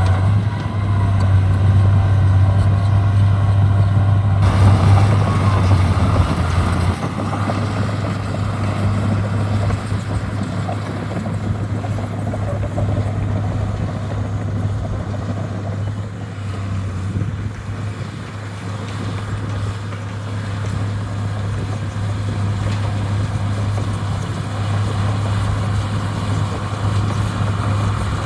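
Heavy diesel engine of landfill earthmoving equipment running steadily with a low hum. The sound shifts about five to seven seconds in, then carries on a little quieter.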